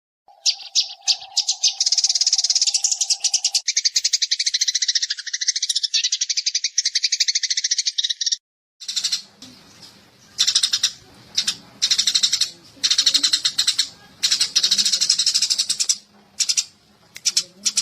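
Eurasian tree sparrows chattering in fast, dense trains of chirps, running on without a break for about eight seconds, then, after a short gap, in repeated bursts with pauses between them over a faint low hum.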